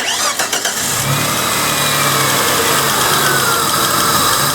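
A 1999 Dodge Avenger's 2.5-litre V6 just started and running, its pitch easing down as it settles toward idle. It is running without a misfire at this moment, though it has an intermittent misfire traced to the ignition.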